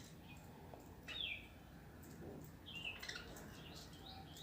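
Pet budgerigars chirping faintly: a few short, falling chirps, one about a second in and a small run of them near three seconds.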